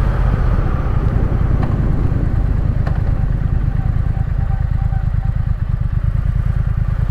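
Triumph Speed Twin's parallel-twin engine running steadily at low revs on the move, its firing pulses even throughout.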